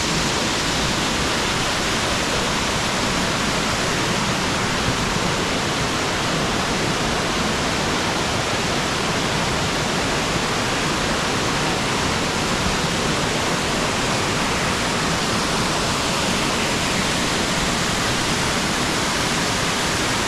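Mountain stream cascading down a rocky gorge over many small falls, a steady loud rushing of water.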